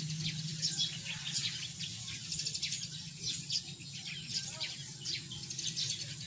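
Birds chirping: many short, high, sharp chirps in quick irregular succession, over a steady low hum.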